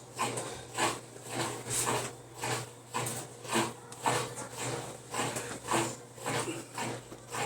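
Electrolux LTE12 washing machine running with a strange rhythmic rubbing squeak, about twice a second, over a steady low hum: the odd noise the machine makes in its spin cycle.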